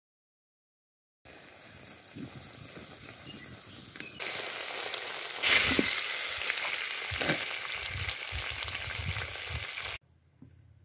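Chicken pieces sizzling in oil in an aluminium kadai while a wooden spatula stirs them, with a few scrapes and knocks against the pan. The sizzle starts about a second in, grows louder twice and cuts off abruptly near the end.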